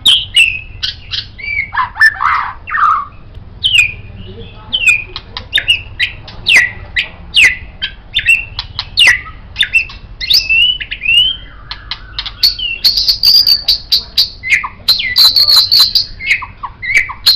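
White-rumped shama (murai batu) singing a rapid, varied song of short whistled notes, slurs and sharp clicks. From about two-thirds of the way in, it mixes in repeated high buzzy trills.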